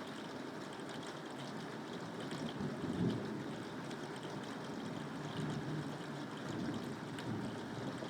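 Steady rainfall, a constant wash of water noise, with a low rumble swelling briefly about three seconds in.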